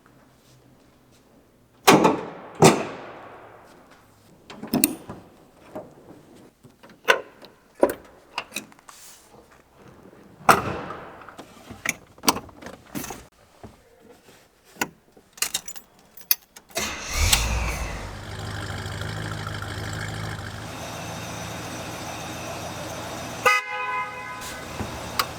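A series of sharp clunks and clicks, then the 1970 Oldsmobile 442's 455 V8 starting about two-thirds of the way in and idling steadily. Near the end the car's horn honks briefly, then again at the very end.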